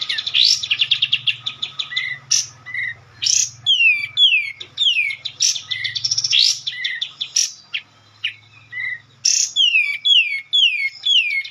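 Bird song: fast rattling trills, then runs of downward-slurring whistles repeated about twice a second, with short lower chirps between. A faint low hum sits beneath and stops about nine seconds in.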